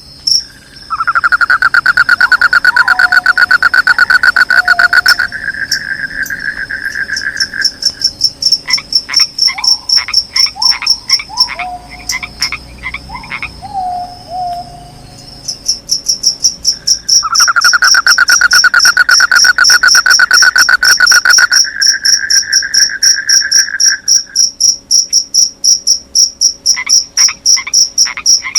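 Frogs and crickets calling. A frog's rapid pulsed croaking trill runs for several seconds twice, once about a second in and again just past the middle. Shorter falling calls come in between, over a steady high pulsing cricket chirp.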